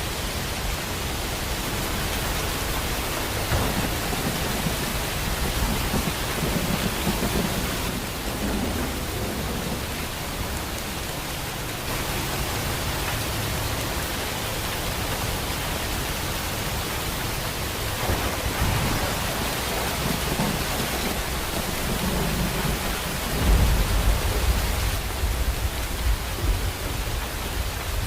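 Steady heavy rain with rolls of thunder: low rumbles swell up several times, the loudest near the end.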